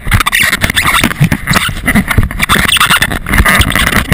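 Muffled rustling and irregular bumps of close handling noise, heard through the camera's waterproof housing.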